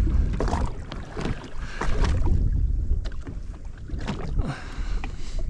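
Wind buffeting the microphone and water slapping against the hull of an anchored jet ski, with scattered small knocks and clicks and no engine running.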